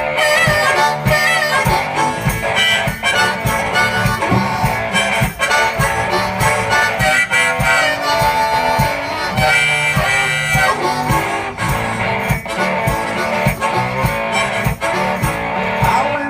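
One-man band playing a blues instrumental break: a harmonica solo with bending notes over guitar and a steady beat.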